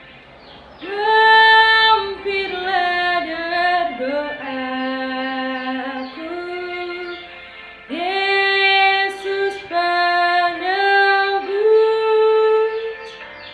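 A woman singing a melody in two phrases, the first starting about a second in and the second about eight seconds in.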